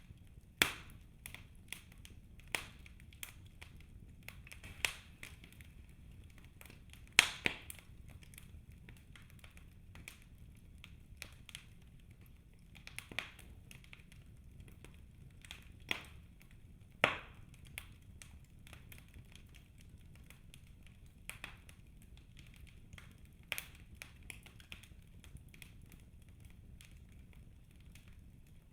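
Birch logs burning in a fireplace, crackling with irregular sharp snaps over a faint steady hiss; the loudest snaps come about 7 and 17 seconds in.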